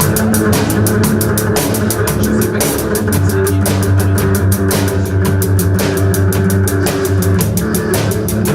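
Rock band playing loudly, the drum kit driving a fast, steady beat over sustained bass and guitar notes.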